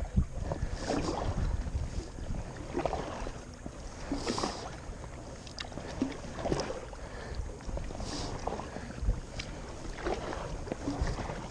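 Kayak paddle strokes in the water, a splash about every one and a half to two seconds, over a low rumble of wind on the microphone.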